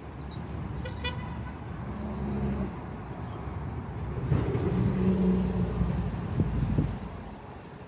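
Diesel freight locomotive running past, a low engine rumble with a steady droning tone that swells about halfway through and eases off near the end.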